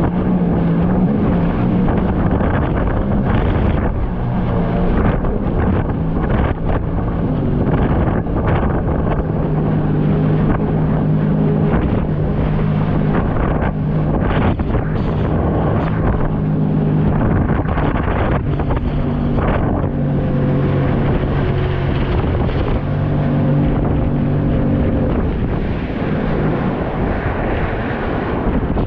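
Jet ski engine running under way, its pitch stepping up and down with the throttle, under heavy wind buffeting on the microphone.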